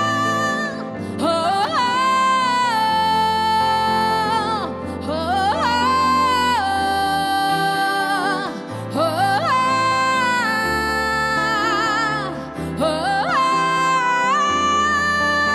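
A woman singing wordless phrases over instrumental accompaniment. Four times she slides up into a long held note with vibrato.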